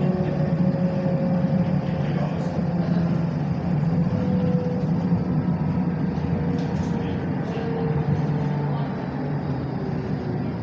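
Tram running between stops, heard from inside the car: a steady low rumble of wheels on the rails, with a faint hum from the drive that slowly shifts in pitch.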